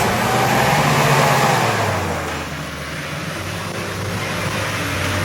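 An off-road 4x4's engine running under load with a steady low hum, under a loud rushing noise that is strongest in the first two seconds and then eases.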